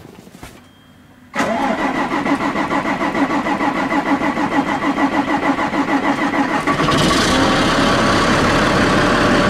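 Diesel engine of a 2001 Gillig transit bus being cold-started after weeks of sitting in 15-degree cold: the starter cranks it with a rhythmic chugging from about a second and a half in, and about seven seconds in it catches and runs steadily.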